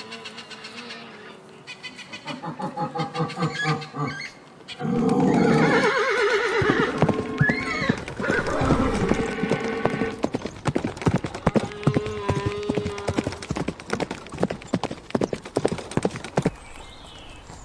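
Horses whinnying, with a loud neigh about five seconds in. Through the second half, hooves clop in quick, sharp clicks.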